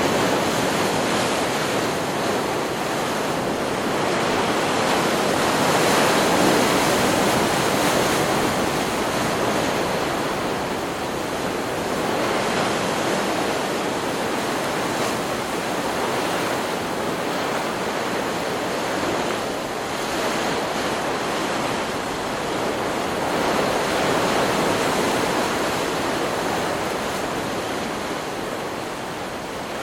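Ocean surf: waves breaking and washing up the shore in a continuous rush that swells and eases every several seconds.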